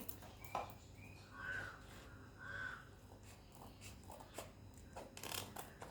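A crow cawing faintly twice, about a second apart, with a few soft clicks.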